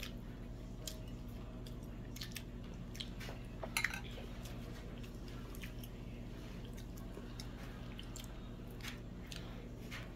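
Faint chewing and small mouth and hand clicks of a person eating, with one sharper click about four seconds in, over a steady low hum.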